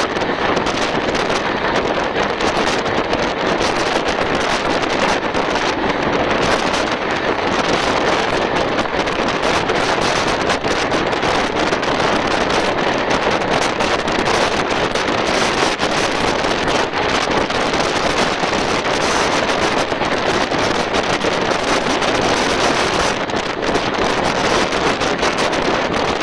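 Steady rush of wind and running noise from a fast-moving express train, heard at the carriage window, with wind buffeting the microphone.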